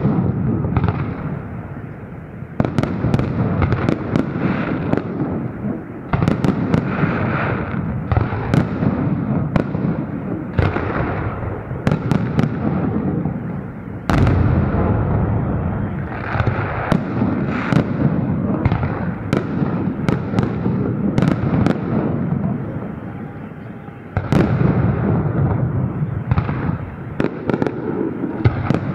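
Festive aerial fireworks salute: a continuous barrage of shell bursts, sharp bangs over a dense low rumble. Fresh, louder volleys set in several times, about every few seconds.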